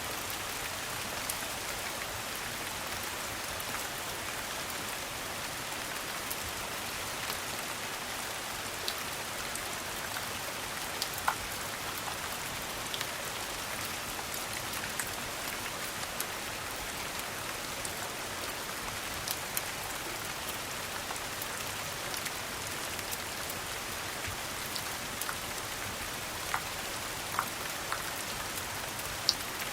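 Steady rain: an even hiss with scattered sharp ticks.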